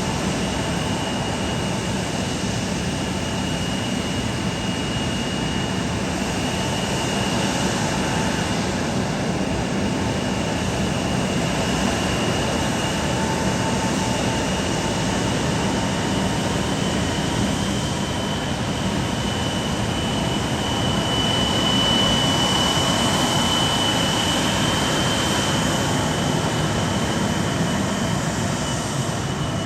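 Jet airliner engines running, a steady roar with a high whine that swells a little about two-thirds of the way through.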